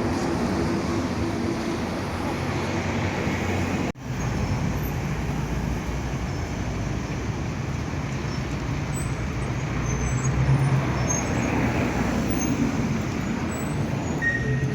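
City street traffic: road vehicles running and passing with a steady low rumble. The sound breaks off for an instant about four seconds in.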